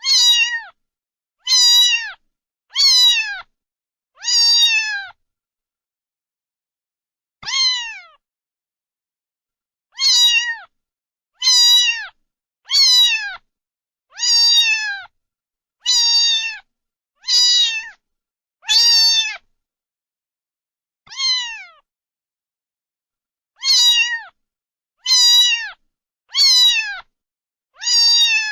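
A cat meowing over and over, about seventeen short meows that each slide down in pitch, spaced a second or so apart, with a few longer pauses.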